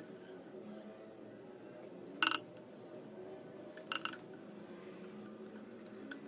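Two short metallic clinks, about two seconds apart, from small tools handled at the workbench while soldering parts into an amplifier board, over a faint steady low hum.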